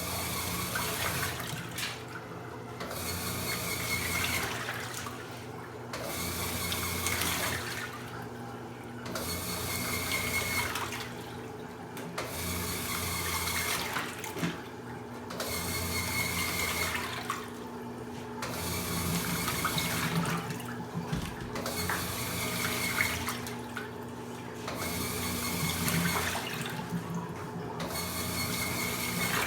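Washing machine draining: water rushes and splashes in surges about every three seconds over a steady low motor or pump hum.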